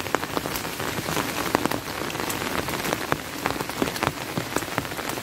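Steady rain falling, an even hiss with many separate drops landing close by as sharp little taps.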